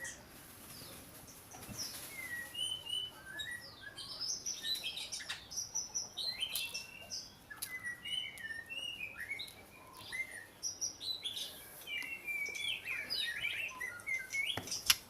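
Oriental magpie-robin singing: a varied run of short whistled phrases and chirps, with a sharp click near the end.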